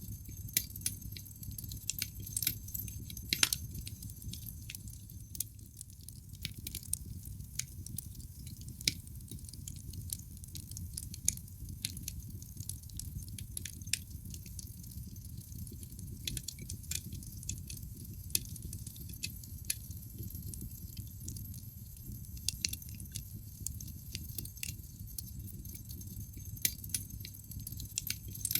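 Wood fire in a fireplace, burning logs crackling with irregular sharp pops and snaps, a few of them louder, over a steady low rumble of the flames.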